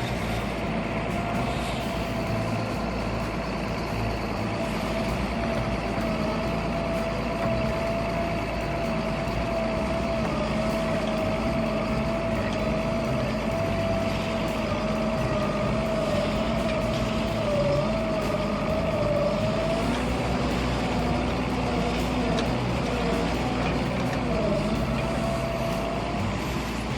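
Heavy stump-clearing machinery running under load: a steady engine rumble with a high, slightly wavering whine on top. The whine dips and wavers about two-thirds of the way through, then steadies again.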